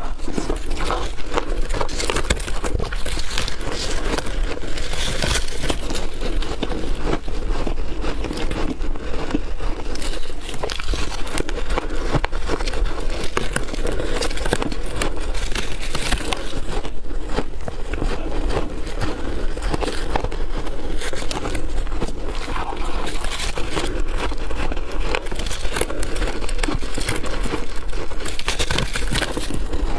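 Chunky freezer-frost ice being bitten and crunched: a dense, unbroken run of sharp crackling crunches.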